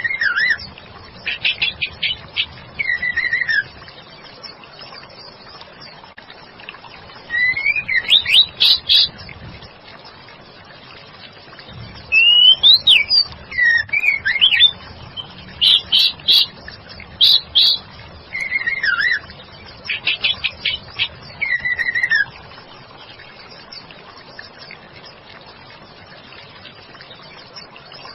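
Female white-rumped shama singing in three spells of whistled notes that slide up and down, mixed with quick runs of repeated high chips, then falling silent about two-thirds of the way through.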